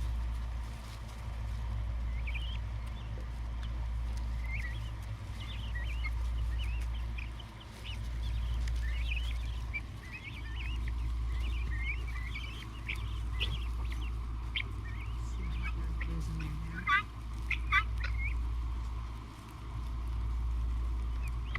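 Guinea fowl keets peeping in quick, high, scattered chirps, with two louder calls near the end. A low rumble swells and fades underneath throughout.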